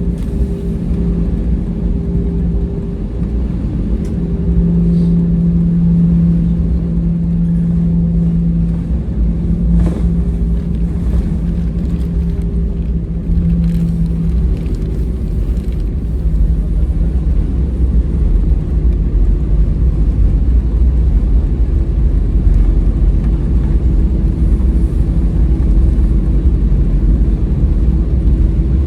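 Cabin noise of an Airbus A320-214 rolling on the ground: a steady low rumble with a steady engine hum from its CFM56 turbofans. The hum changes pitch about halfway through, and a few light knocks come early on.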